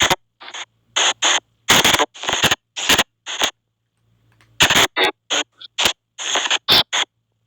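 SP White Noise box spirit-box app sweeping: short, chopped bursts of hissing white noise and radio-like fragments, about two a second, with a gap of about a second midway.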